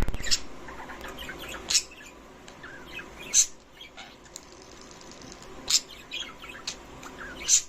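Pet budgerigars chirping: sharp, loud chirps every second or two, with softer twittering in between.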